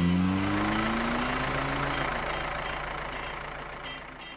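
A cartoon car engine sound effect revving up, its pitch rising for about two seconds, then speeding away and fading out.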